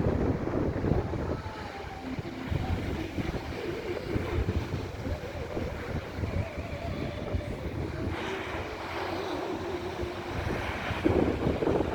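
Sea waves washing and breaking on the shore, with wind buffeting the microphone; a louder surge of surf about a second before the end.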